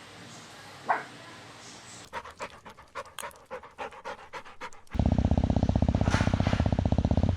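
Small-breed puppy panting in quick short breaths, becoming louder and faster from about five seconds in. There is a brief high sound about a second in.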